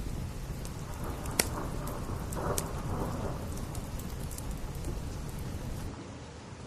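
Steady rain with a low rumble underneath, and a few sharp pops of a wood fire crackling, the loudest about a second and a half in and again about two and a half seconds in. The sound turns duller near the end.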